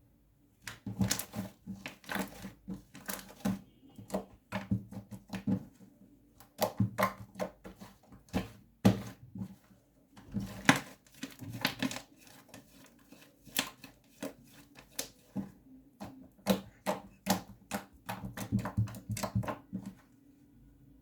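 Slime being squeezed and pressed by hand, giving irregular runs of quick, sticky pops and clicks with short pauses between them.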